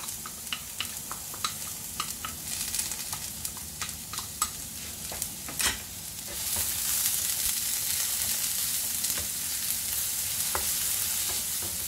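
Sliced onions and freshly added minced garlic sizzling in hot olive oil in a frying pan, with a wooden spatula clicking and scraping against the pan as it stirs. The sizzle grows louder about halfway through.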